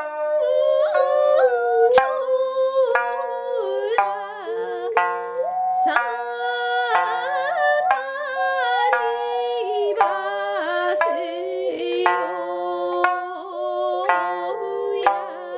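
Music: a sanshin plucking notes about once a second under a continuous melody of held notes that slide from pitch to pitch.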